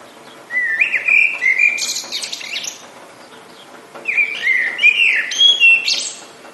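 A songbird sings two phrases of clear whistled notes with buzzy trills, about a second and a half apart, over a steady hiss of rain.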